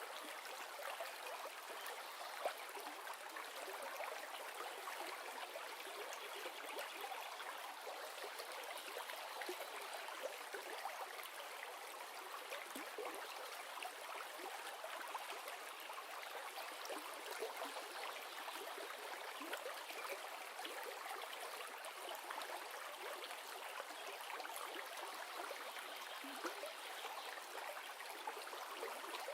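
A river running: a steady, even rush of flowing water with fine babbling flicker.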